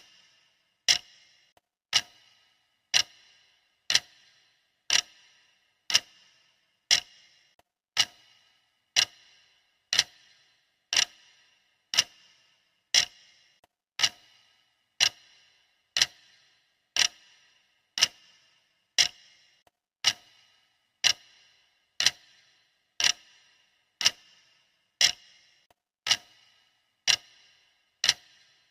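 Sharp clock ticks, one a second, steady and even, each with a short ring after it: the ticking of a countdown timer.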